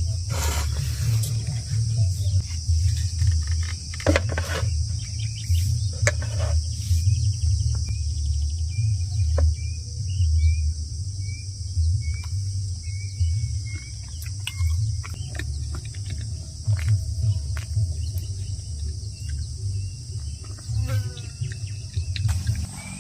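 Outdoor ambience. Gusting wind rumbles on the microphone under a steady high insect drone, and a bird chirps a run of short, evenly spaced notes in the middle.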